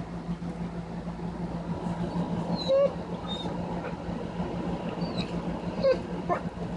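Dog giving a few short, high whining squeaks of excitement, its 'warbling', over a steady low hum.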